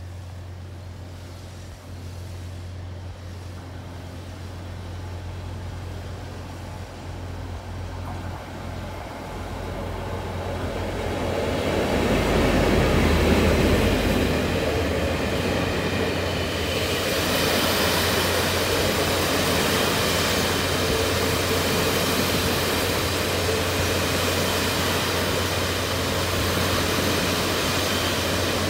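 Passenger train at a station platform: a low steady hum, then the train's running noise grows louder over several seconds as it comes close, peaks about 13 seconds in, and carries on as a steady noise of wheels and machinery with faint high whines.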